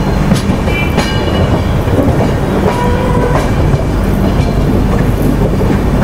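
Passenger train coaches running over track joints and points, a steady rumble with sharp wheel clicks and a few short high tones, heard from the open doorway of a coach as the train crosses points on the approach to a station.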